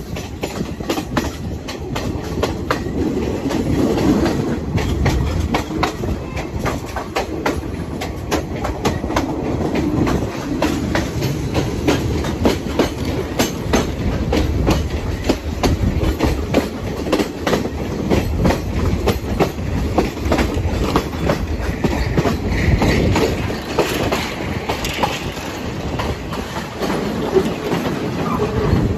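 Passenger train carriages running along the track: a steady low rumble with a rapid, irregular clatter of wheels clicking over rail joints, heard at an open carriage window.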